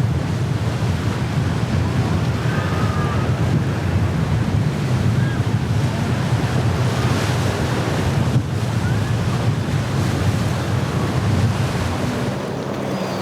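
Waves and surf churning with heavy wind buffeting the microphone, a steady low rumble throughout.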